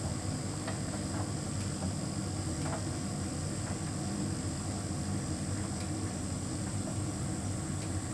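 Hotpoint heat pump tumble dryer running: a steady low hum with a few faint scattered ticks.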